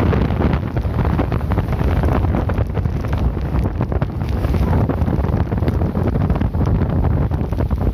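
Strong wind buffeting the microphone: a loud, continuous low rumble with crackling.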